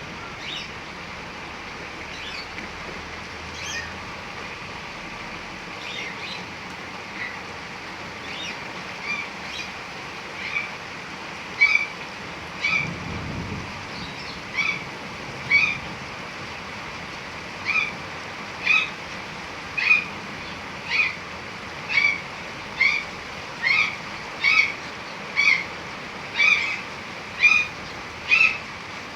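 Steady hiss of heavy rain falling, with a bird calling over it in short, repeated notes that grow louder and settle into about one a second in the second half. A brief low rumble about halfway through.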